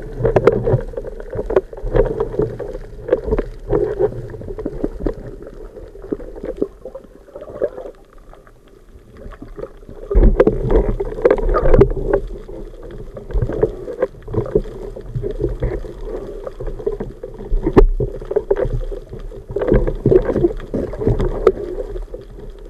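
Muffled water sloshing, with irregular knocks and bumps.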